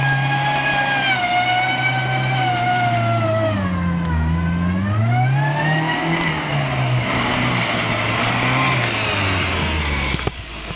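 Metro hatchback's engine revving hard as the car spins donuts on snow. The revs dip about four seconds in and climb again, with a rising hiss added from about seven seconds, and the sound drops sharply just before the end.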